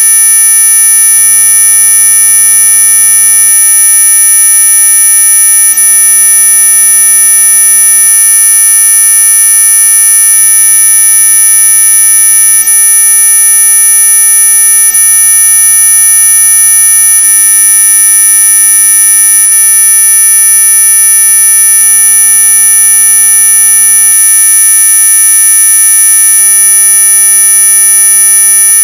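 Synthetic anti-mosquito repellent tone: a loud, unchanging electronic whine of many steady tones stacked together, the strongest very high-pitched near the top of hearing, meant to drive off mosquitoes.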